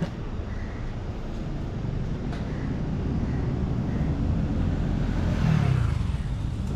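Steady low rumble of outdoor road traffic, swelling as a vehicle passes close by about five and a half seconds in.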